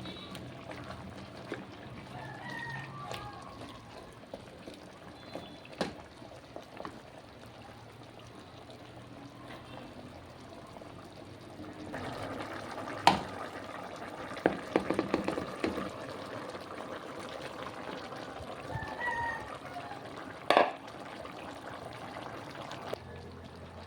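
Liquid pouring and sloshing in a kitchen, with a few sharp knocks and a brief rattle of utensils about the middle.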